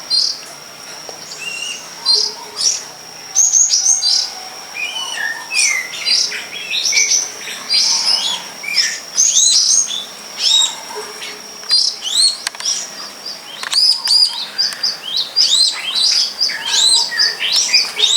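Small songbirds chirping and twittering in quick, repeated short calls. A steady high-pitched whine runs underneath and stops about two-thirds of the way through.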